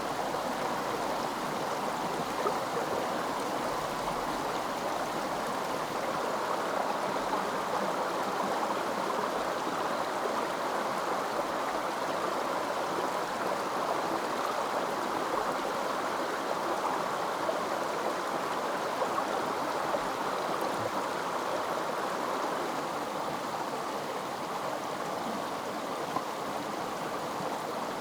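A stream of running water flowing steadily, an even rushing sound that does not change.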